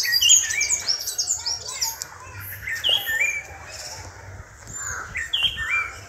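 Songbirds chirping: many short whistled notes, several sliding up or down in pitch, from more than one bird at once. The notes are busiest in the first couple of seconds and again near the end.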